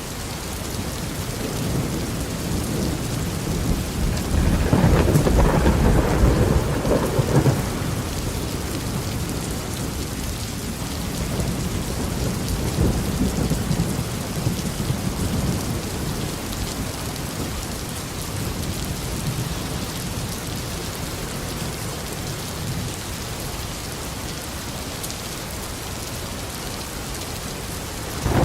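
Tropical rain falling steadily, with a long rumble of thunder about four seconds in that is the loudest part, a weaker rumble around halfway, and another roll of thunder beginning right at the end.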